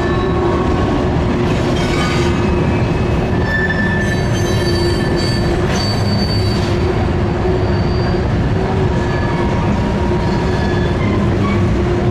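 Freight train of covered hopper cars rolling across a railroad bridge behind CSX diesel locomotives: a steady, loud rumble of wheels on rail, with thin high squealing tones from the wheels coming and going.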